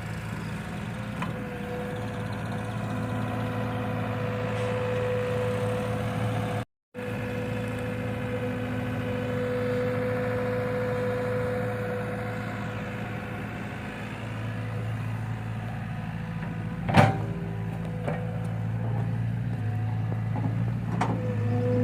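Heavy diesel tractor engine running steadily under load, with a sharp knock about 17 seconds in. The sound cuts out briefly about 7 seconds in.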